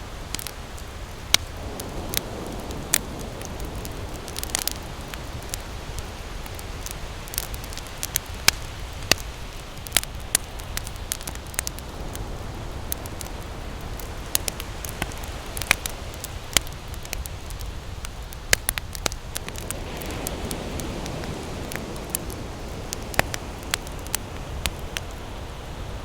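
Wood campfire crackling, with frequent irregular sharp pops, over the steady low rumble of ocean surf. Waves wash in audibly twice, a couple of seconds in and again about twenty seconds in.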